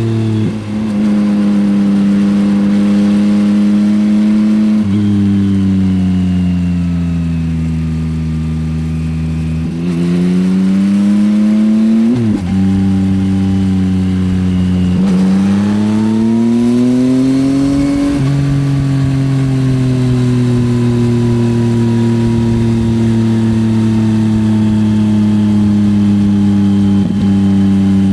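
2024 Yamaha XSR900's inline three-cylinder CP3 engine through an Akrapovič exhaust, heard from the rider's seat while riding. The engine note rises and falls in pitch with the throttle, drops suddenly at gear changes around the middle, and ends on a long, slow fall in pitch.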